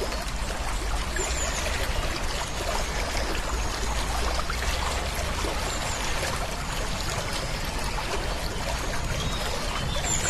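Running water, a steady rushing and trickling flow.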